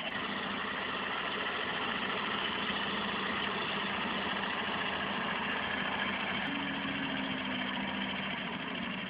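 Heavy machinery diesel engine running steadily, with a low hum; a second, higher hum joins about six and a half seconds in.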